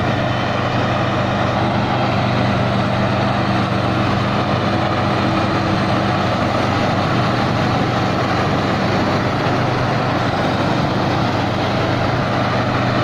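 Rice combine harvester's diesel engine running steadily under heavy load as it harvests through deep mud, straining hard enough to smoke.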